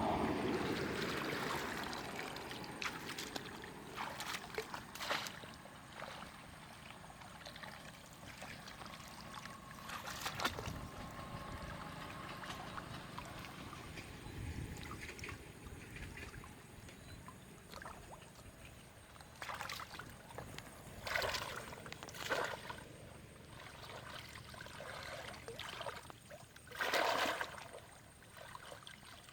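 Water sloshing and trickling, broken by irregular splashes; several louder splashes come in the last third.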